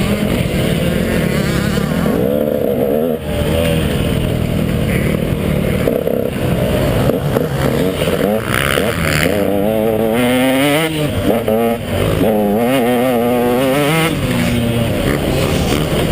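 Two-stroke KTM 150 XC dirt bike engine under race throttle, its pitch climbing and dropping again and again as the rider revs through the gears and backs off.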